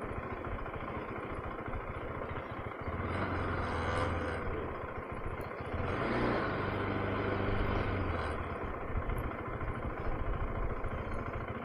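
KTM 390 Adventure's single-cylinder engine running at low speed in slow traffic, its note swelling twice, about three and six seconds in.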